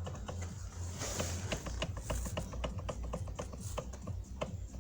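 Uneven light knocks and clicks, several a second, from the steering column of a Toyota Land Cruiser Prado 120, over a low steady hum: the knock the owner is chasing in the column.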